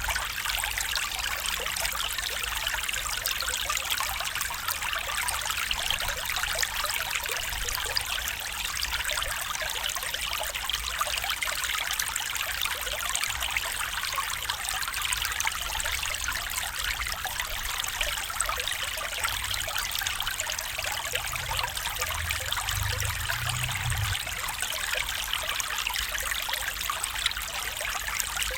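A small stream flowing, its water trickling and babbling steadily over the whole stretch.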